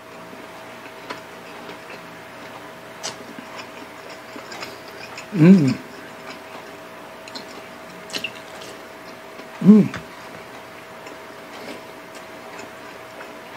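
Close-miked eating of pork adobo and rice by hand: small mouth clicks and smacks of chewing throughout, with two short hummed vocal sounds from the eater, about five and ten seconds in, the loudest moments.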